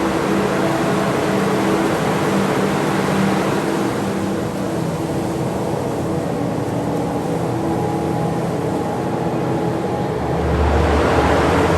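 Rushing air and low hum from the blowers of a wind installation. The rush eases off in the middle and swells again with a deeper rumble near the end.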